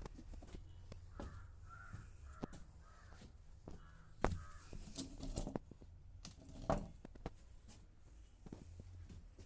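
A crow cawing, about six harsh caws in quick succession starting about a second in, with a few sharp knocks in between, two of them louder than the calls.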